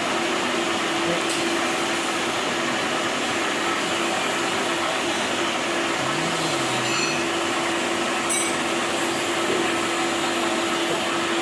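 Workshop machine running steadily: an even whirring noise with a constant hum.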